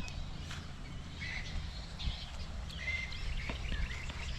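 Birds chirping and twittering in short, scattered calls over a low, steady rumble.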